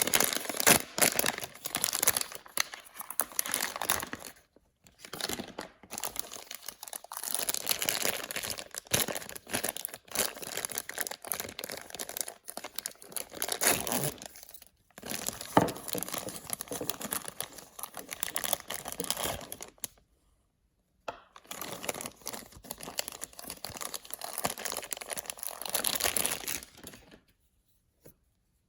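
Blind-bag packaging crinkling and being torn open by hand, in stretches of a few seconds with short pauses between them. It stops about a second before the end.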